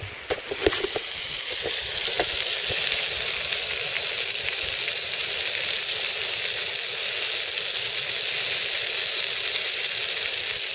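Peppercorn steaks, new potatoes and cherry tomatoes frying in a pan on a camping stove: a steady, dense sizzle that builds over the first couple of seconds and then holds, with a few light knocks near the start.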